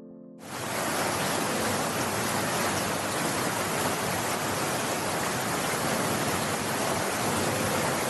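Mountain stream rushing over rocks: a steady, even wash of water that comes in suddenly about half a second in.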